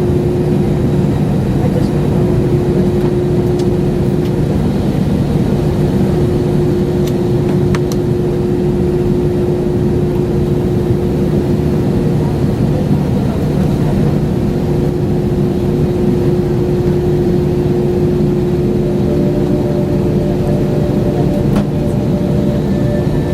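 Steady jet engine noise inside the cabin of an Airbus A320 airliner: a constant hum with a steady droning tone. A second, higher tone joins near the end.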